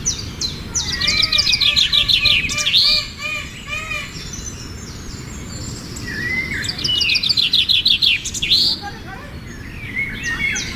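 Birds singing: two bursts of rapid, high-pitched chirping trills, one about a second in and another around seven seconds in. Alongside the first burst runs a series of lower arched call notes, about two to three a second.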